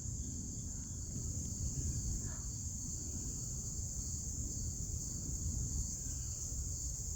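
Steady, unbroken high-pitched insect chorus, cricket-like, with a low rumbling noise underneath.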